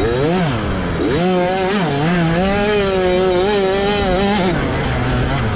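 65cc two-stroke motocross bike engine revving: its pitch climbs twice in the first second or so, then holds high with small wobbles for about three seconds. It drops back, and starts climbing again near the end.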